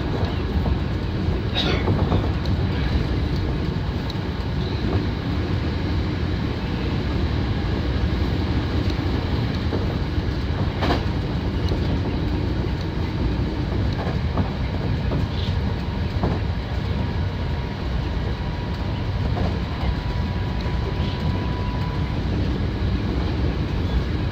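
Hankyu 7000 series electric train running at speed, heard from inside the front car: a steady rumble of wheels and running gear, with occasional sharp clicks as the wheels pass over rail joints.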